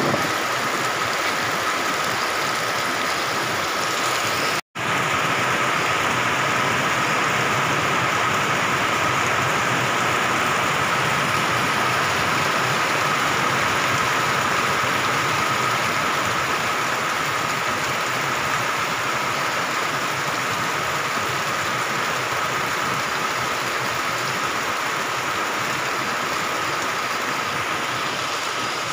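Heavy tropical downpour falling steadily on trees and foliage, a constant even hiss. The sound cuts out for an instant about five seconds in.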